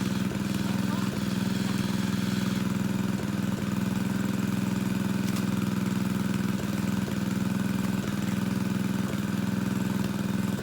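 Small engine driving a water pump, running steadily at one constant speed to pump a pond dry.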